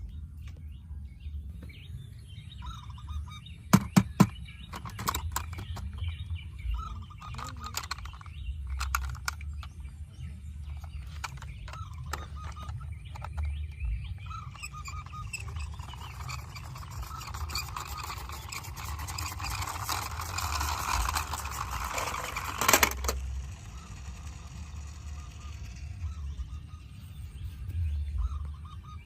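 Diecast toy vehicles being handled: a few sharp clicks and knocks, then a rattling whirr that builds for several seconds and ends in a sharp clack, over a steady low hum.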